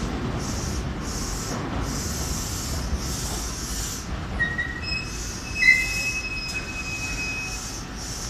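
Semboku Rapid Railway commuter train set 7523F rolling slowly into a station platform as it arrives, a steady low rumble with a hiss that swells and fades. About halfway through, a few short high-pitched squeals rise from the train as it brakes, the loudest a sharp one just before the middle of the squeals.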